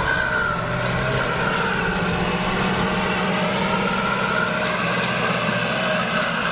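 Kubota tractor's diesel engine running steadily under load while ploughing, with a slowly wavering higher whine over the engine note.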